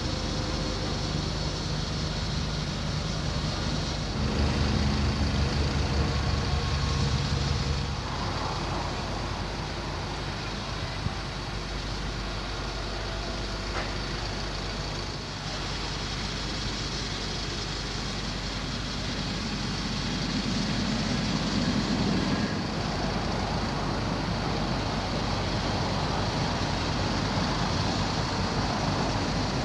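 Diesel engine of a Freightliner FL80 bucket truck running steadily, growing louder with a deeper low pulse for about four seconds starting four seconds in.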